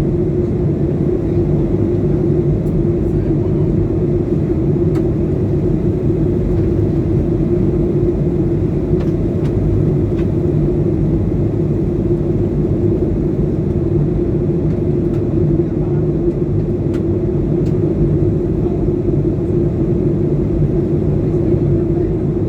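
Airliner cabin noise in flight: a steady, unbroken drone of engines and airflow with a constant hum.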